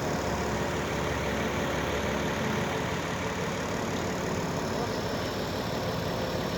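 An engine idling steadily with a fast, even low pulse.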